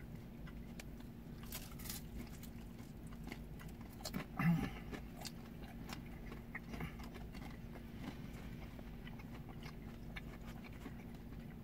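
People chewing and biting thin-crust pizza: soft, wet mouth sounds with faint crunches, over a low steady hum. A short voiced murmur comes about four and a half seconds in.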